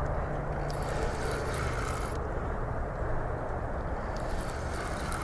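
Steady wind rumbling over the microphone, with a hiss that comes and goes.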